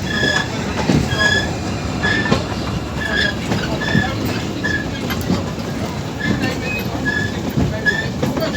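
Railway brake van rolling along the track: a steady rumble with clicks from the wheels, and short high squeals repeating a little under twice a second.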